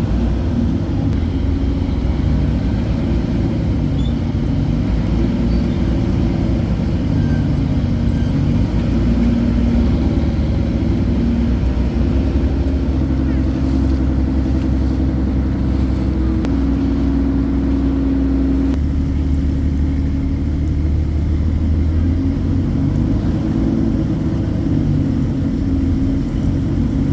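Motor engine running steadily, a low hum whose pitch shifts slightly now and then.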